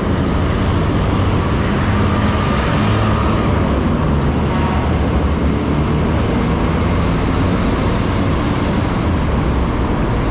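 Steady noise of road traffic, heard from a bicycle riding along a busy city road.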